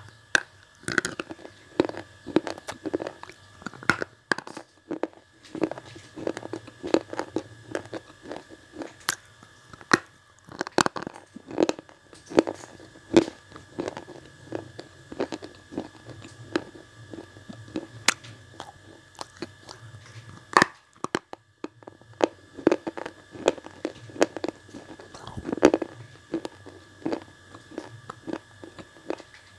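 A red slate pencil block bitten and chewed, right at the microphone: a long run of sharp, brittle crunches and clicks. A faint steady high tone runs underneath.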